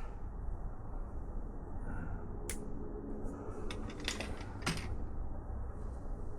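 A few scattered light clicks and knocks of hand tools on metal, over a low steady hum.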